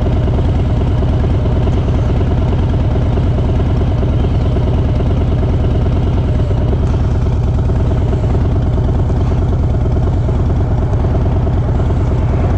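Harley-Davidson Sport Glide's V-twin engine running steadily at an even pitch.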